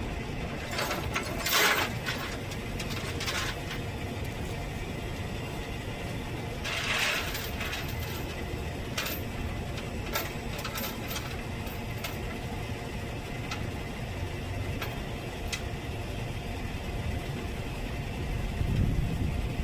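Truck engine running steadily, with a few short rattles and clicks; the low rumble grows louder near the end.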